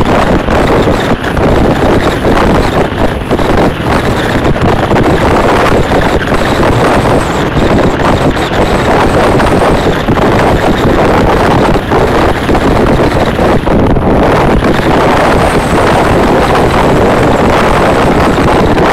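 Indian passenger train running at speed, heard from an open coach door: a steady, loud rush of wind buffeting the microphone mixed with the train's running noise.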